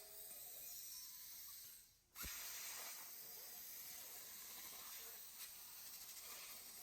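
Faint steady hiss that drops out briefly about two seconds in, then comes back suddenly.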